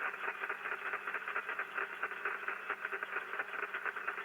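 Rain static (QRN) from an HF Yagi antenna heard through a receiver with no filters and no noise blanker: a dense, continuous crackle of rapid clicks. The operator takes it for charged rain discharging on or near the antenna.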